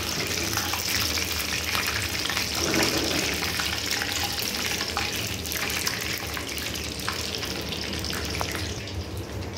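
Chicken pieces frying in hot ghee in a wok: a steady crackling sizzle that fades a little near the end.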